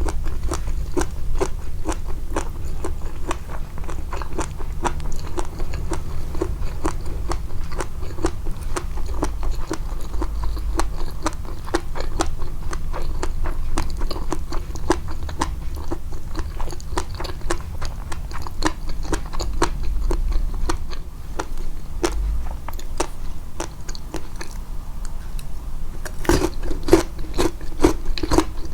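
Close-miked chewing: a steady run of wet, crunchy bites and mouth clicks, several a second, with a louder cluster of crunches near the end.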